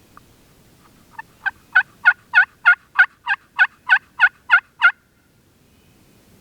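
A run of about thirteen turkey yelps, evenly spaced at roughly three a second, the first few soft and the rest loud, ending about five seconds in.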